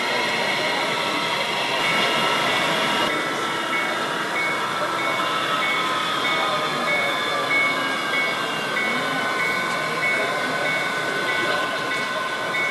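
Exhibition-hall din around a model railway layout: steady running noise with chatter in the background, and a high beep pulsing on and off a couple of times a second from about two seconds in.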